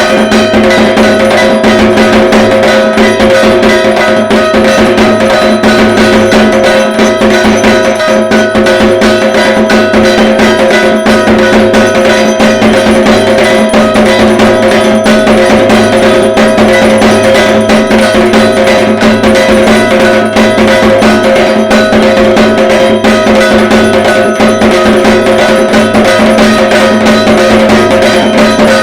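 Dhak drums, the Bengali barrel drums of Durga Puja, played in a dense, fast, continuous beat, with a steady ringing metallic tone held over the drumming.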